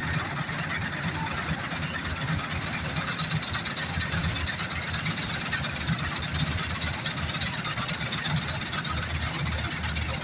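New Holland combine harvester running steadily, a low engine drone under a broad mechanical hiss.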